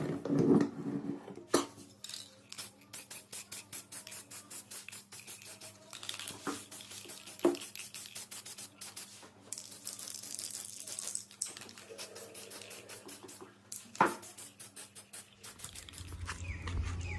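Spray paint can being shaken, its mixing ball rattling about five times a second, with bursts of spray hiss and a few single knocks.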